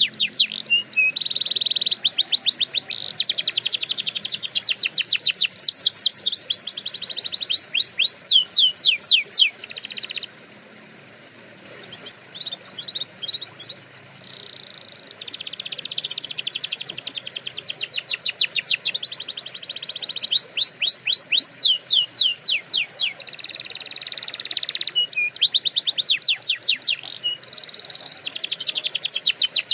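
Domestic canary singing: fast trills of rapidly repeated high notes, broken by a few seconds of only scattered chirps about a third of the way in before the trilling resumes.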